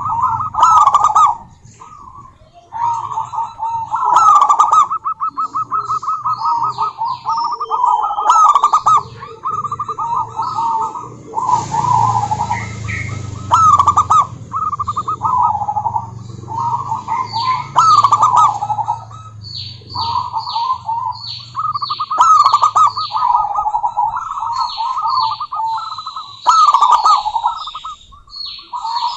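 Zebra doves cooing: trilled coo phrases repeated one after another with short gaps. Through the second half a smaller bird adds runs of quick, high chirps, and a brief hiss comes about twelve seconds in.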